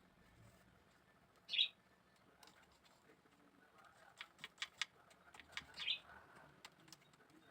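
A small bird chirping, two short high calls about four seconds apart, with a quick run of light clicks between them.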